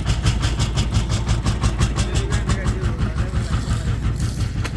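Small engine running steadily with a rapid, even pulse.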